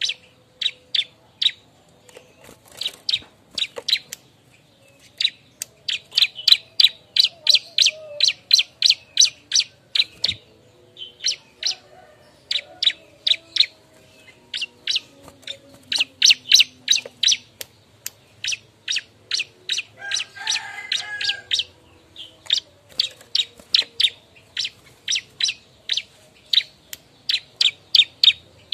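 Bar-winged prinia (ciblek) calling: long runs of short, sharp chip notes, about three a second, broken by brief pauses. A lower, buzzier call sounds briefly about two-thirds through.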